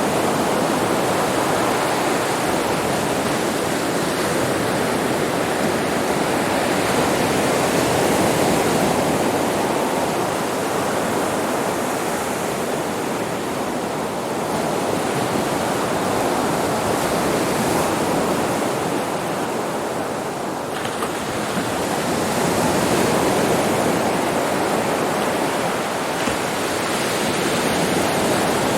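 Sea surf on a beach: a continuous rush of breaking waves that swells and eases gently every several seconds.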